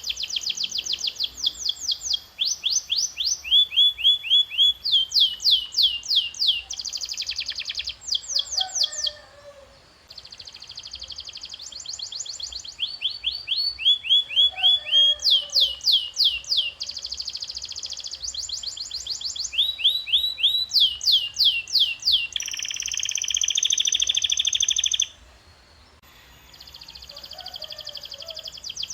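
Domestic canary singing in long rolling phrases: fast runs of repeated falling notes, several a second, changing from phrase to phrase, and a long buzzy trill near the end. The song breaks off briefly about a third of the way in and again near the end.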